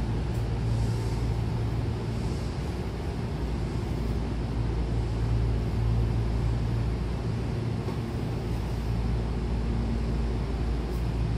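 Steady low hum of Hankyu trains standing at a station platform with the doors open, their onboard equipment running, the hum swelling and easing slightly over a background of noise.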